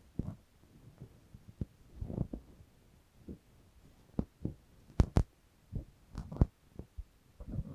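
Ear-cleaning tools rubbing and tapping close to the microphone: irregular soft low thumps and scrapes, with two sharp clicks in quick succession about five seconds in and a few more a second later.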